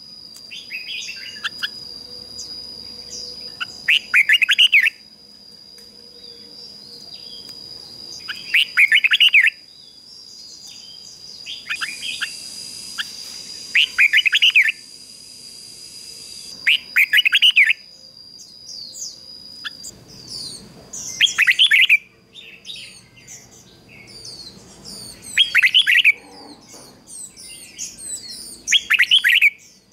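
Red-whiskered bulbul singing short, loud, warbling phrases about every four seconds. A thin steady high tone runs behind the song and stops about two-thirds of the way through, after which quick, faint, higher chirps fill the gaps.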